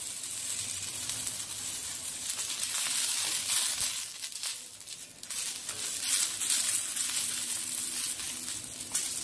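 Green chillies sizzling in oil on a hot iron tawa, with a wooden spatula scraping and turning them a few times.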